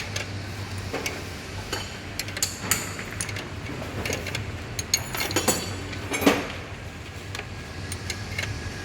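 Hand tools and metal parts clinking and tapping in scattered clicks, with one louder knock about six seconds in, over a steady low hum.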